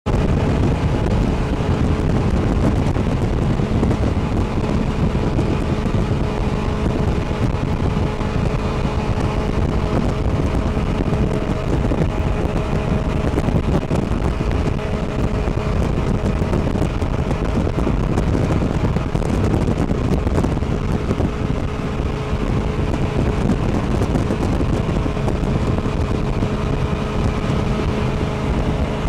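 Jet boat engine running steadily at speed, with wind noise on the microphone.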